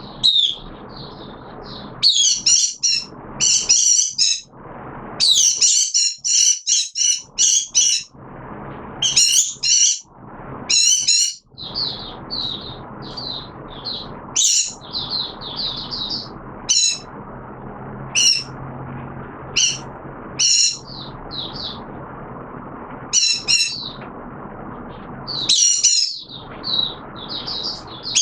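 A caged songbird singing in repeated short, fast, high-pitched twittering phrases with brief pauses between them, over a steady low hum.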